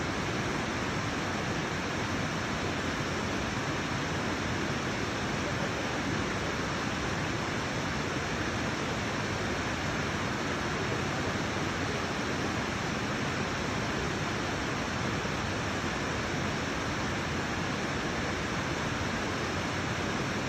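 Fukuroda Falls' water rushing down the rock face in a steady, unbroken roar of spray, with the falls running at low flow.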